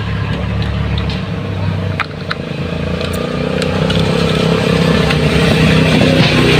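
An engine running steadily, growing louder and rising slightly in pitch from about halfway through, with a few light clicks.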